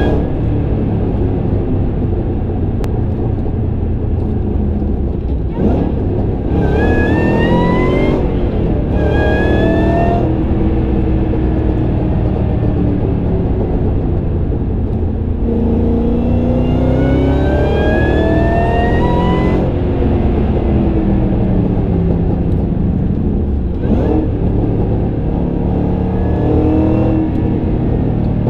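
2012 Shelby GT500's supercharged 5.4-litre V8 accelerating hard through the gears of its six-speed manual: several climbs in revs with short breaks at the shifts, the longest near the middle. A high supercharger whine rises along with each pull.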